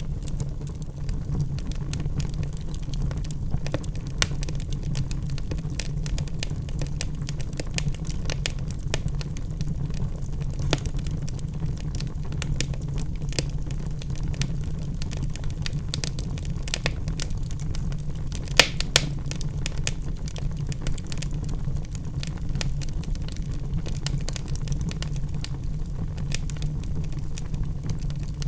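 Wood logs burning in a fireplace: a steady low rumble of flames under frequent sharp crackles and pops, with a couple of louder pops about two-thirds of the way through.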